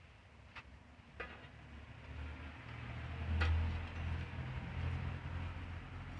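Wood fire crackling, with a few sharp pops from the burning wood, the loudest about halfway through. Under it a low rumble swells from about a third of the way in and peaks with that pop.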